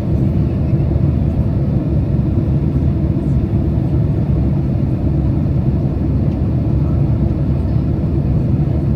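Boeing 767 cabin noise on approach: a steady low rumble of the engines and airflow, heard from inside the cabin.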